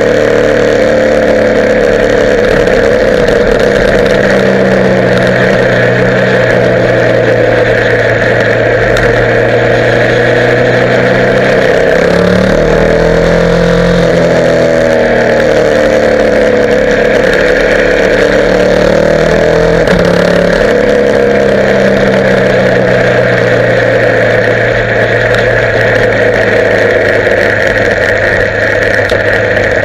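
Motorcycle engine running while riding, under steady wind rush. Around the middle the engine note drops and then climbs again, as the bike slows and picks up speed.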